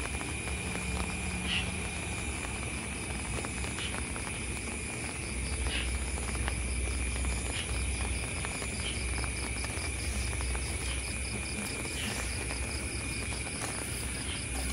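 Night insects, such as crickets, trilling steadily over the hiss of rain. A second, fast pulsing call joins about five seconds in.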